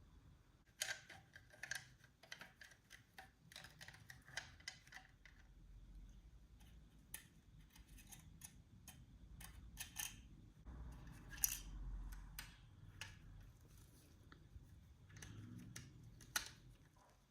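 Irregular light clicks and taps, one after another, from small hand work, over a low background hum.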